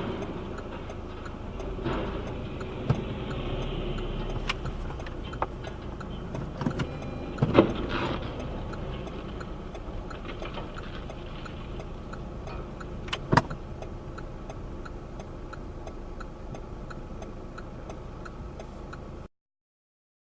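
Road and engine noise of a moving vehicle with a faint, regular ticking, broken by several sharp knocks or bangs; the loudest comes about seven and a half seconds in, another near thirteen seconds. The sound cuts off abruptly just before the end.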